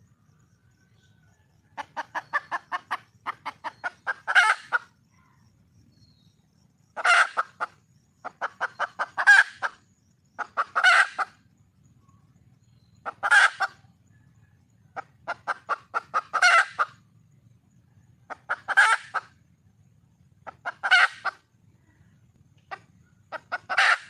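Junglefowl hen calling for a mate: repeated bouts of quick clucks, each building into a louder squawk at its end, coming every two to three seconds.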